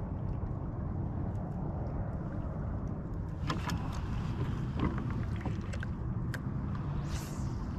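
Steady low rumble with a few light clicks and taps scattered through it, and a brief hiss about seven seconds in.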